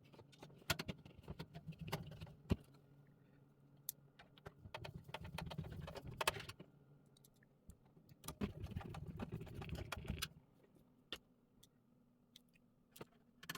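Power supply being fastened into a PC case: scattered metallic clicks and rattles of screws and metal parts, with several stretches of rubbing handling noise lasting a second or two each.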